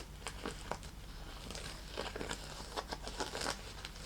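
Fingernails scratching and tapping on a small snake-leather bag, giving crinkly handling noise and an irregular scatter of short, sharp clicks.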